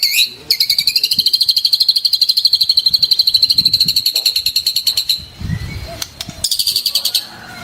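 White-rumped shama (murai batu) singing a fast, even trill of rapidly repeated high notes for about four seconds, then after a short pause a second, briefer trill near the end.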